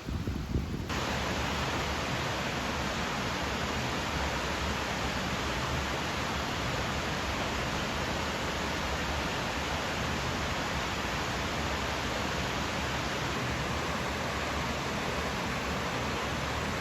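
Waterfall water falling and splashing in a steady rush, which cuts in abruptly about a second in.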